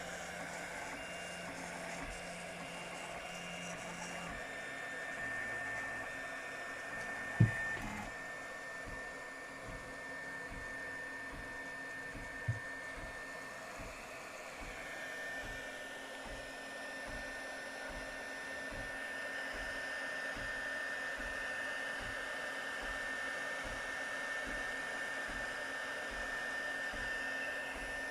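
3D printer fitted with a DIY RC-servo direct drive extruder running a print: steady fan hum with a high, even motor whine and low pulses about twice a second. A sharp click about seven seconds in and a fainter one about five seconds later.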